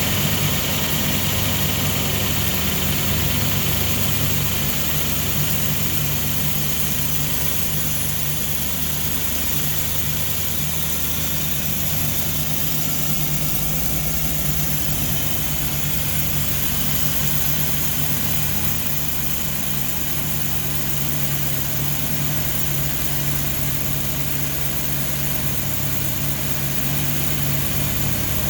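The 4.0-litre S65 V8 of a 2013 BMW M3 idling steadily, with no revving.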